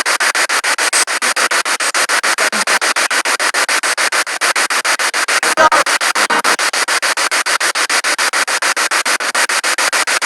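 Spirit box radio sweeping through stations: loud hissing static chopped into rapid pulses, about eight a second, with a brief snatch of broadcast sound about halfway through.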